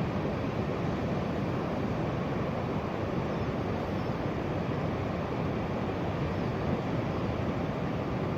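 Steady roar of Tasman Sea surf breaking on a beach, an even rushing noise with no separate splashes standing out.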